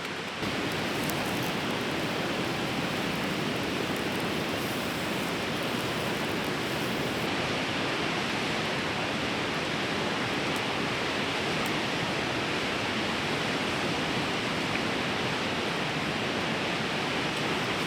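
Fast river rushing past: a steady, even roar of flowing water, slightly louder after the first half-second.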